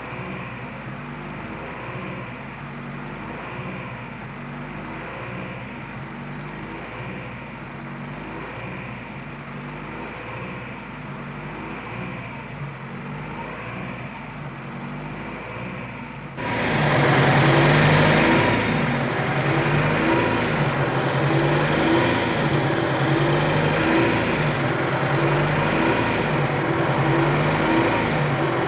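Acura Integra four-cylinder engine idling steadily with an even pulsing beat, freshly started after an oil pan gasket replacement. About two-thirds of the way through it turns suddenly much louder and stays so.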